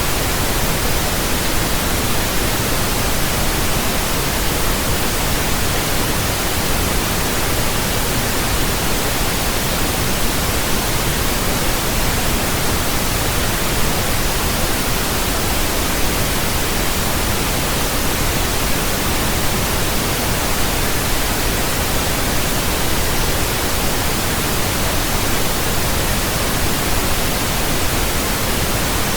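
Pink noise: a steady, even hiss with a deeper rumble than white noise, unchanging throughout.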